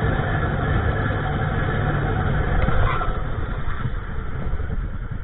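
Steady vehicle running and road noise picked up by a dashcam's microphone, a continuous low rumble with no distinct events.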